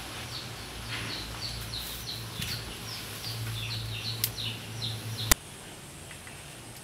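A small bird calling over and over in short falling chirps, about three a second, over a low steady hum. A sharp click about five seconds in, after which the calls stop.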